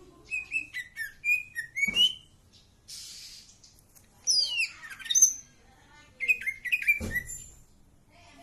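A cak ijo songbird singing in bursts of quick chirps and sweeping whistled phrases, three spells in all. Two dull thumps fall among the song, one about two seconds in and one about seven seconds in.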